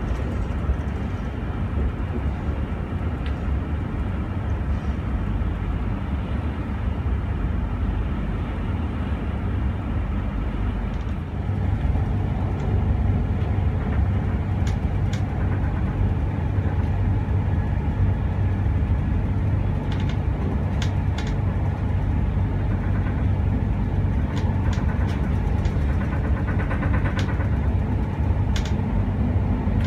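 A TER passenger train running, heard from inside the coach: a steady low rumble of wheels on the rails. It gets louder about eleven seconds in, and a scattering of sharp clicks comes through in the second half.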